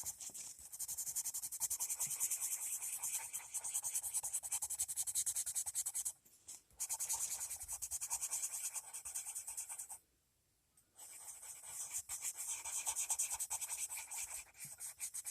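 Coloured pencil shading on paper: quick back-and-forth scratchy strokes in three long runs, with brief pauses about six seconds in and again about ten seconds in.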